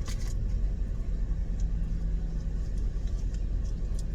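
Steady low rumble of a motor vehicle's engine running, with a faint steady hum and a few light clicks.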